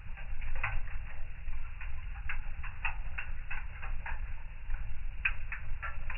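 Fire in a fireplace crackling: irregular sharp pops several times a second over a low, steady rumble.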